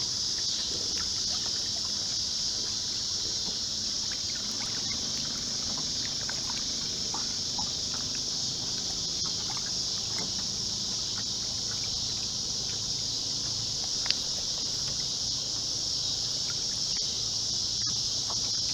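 Steady, unbroken chorus of insects, crickets or katydids, holding one high pitch throughout, with faint scattered small ticks and one sharp click about fourteen seconds in.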